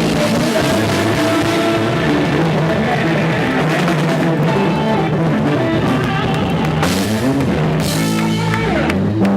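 Live band music with drums and electric guitar, played loud and steady.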